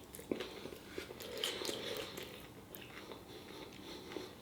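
A person chewing and biting food close to the microphone, with scattered small wet clicks and crunches.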